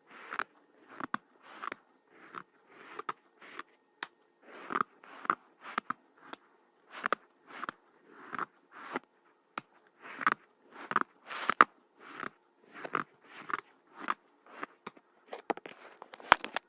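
Kinetic sand crunching close to the microphone in a steady run of short, crisp crunches, about two a second.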